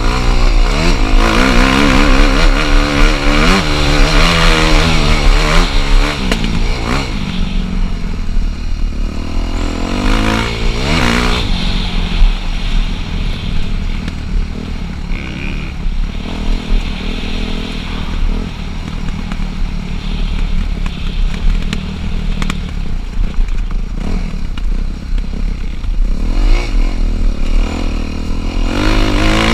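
Dirt bike engine being ridden, its pitch rising and falling quickly with the throttle through the first several seconds, then running steadier, with more revving near the end.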